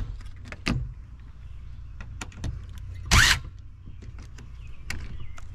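Dishwasher panel being taken apart by hand: scattered clicks and knocks of plastic and metal parts, with a short loud scrape about three seconds in, over a low steady hum.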